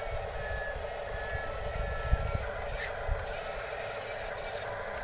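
Small electric motors and gearboxes of radio-controlled construction models (bulldozer and excavators) whirring steadily as they work, with a few faint short beeps and a light knock about two seconds in.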